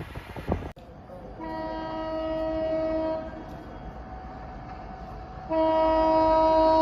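Locomotive horn of an approaching express train sounding twice: a steady blast of about two seconds, then after a pause a second, louder blast that is held on. Wind noise on the microphone at the very start.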